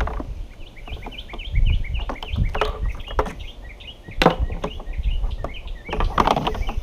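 A bird chirping in a quick series of short, rising notes, over knocks and clatter from a stiff high-pressure hose being worked into a plastic case.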